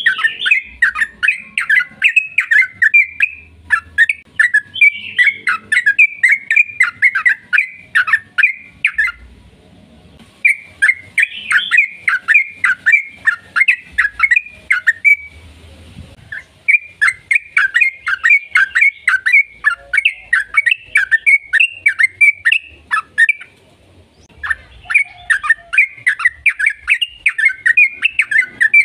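Yellow-vented bulbul (trucukan) singing long, rapid runs of bubbling, chattering notes. The song comes in four bouts separated by short pauses.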